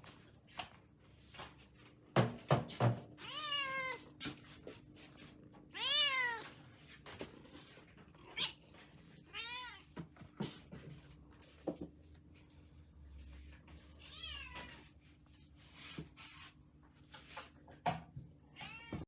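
Munchkin cat meowing about five times, each meow rising then falling in pitch, with scattered knocks and thumps between them, the loudest a few thumps about two seconds in.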